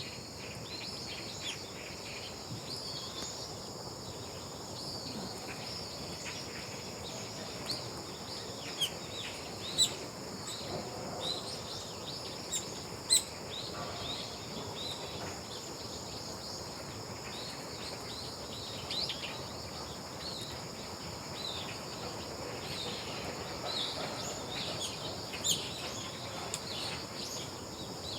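Small birds chirping in many short calls over a steady, high insect drone of crickets. Two sharp clicks stand out, about ten and thirteen seconds in.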